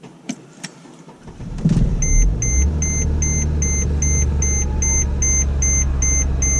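Two clicks, then a 2010 Mercedes GL350 Bluetec's 3.0 V6 diesel cranks briefly and catches about two seconds in, starting at −33 °C after its glow plugs were cycled, and settles into a steady low idle. From the moment it fires, a warning chime beeps evenly about two to three times a second.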